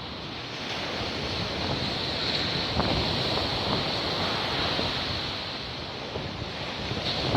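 Stormy Black Sea surf breaking on the shore, with strong wind buffeting the microphone. The rush of the waves swells about a second in, eases off, and builds again near the end.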